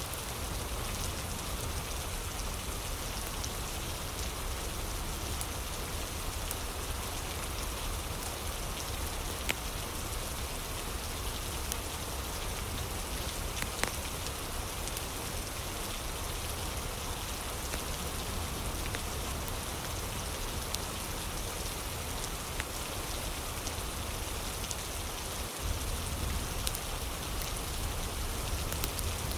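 Steady rain falling, an even hiss of drops, with scattered small pops of a crackling wood fire; the sharpest pops come about ten and fourteen seconds in.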